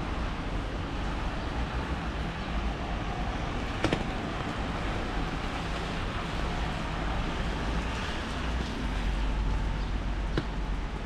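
Steady rain falling on a town street, an even hiss over a low rumble, with a sharp tap about four seconds in and another near the end.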